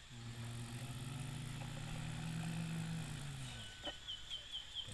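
A vehicle motor runs with its pitch rising, holding and then falling away over about three and a half seconds. Near the end come about five short, high, warbling chirps.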